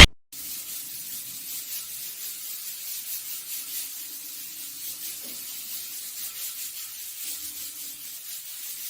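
A steady hissing noise that starts just after a loud sound cuts off at the very start.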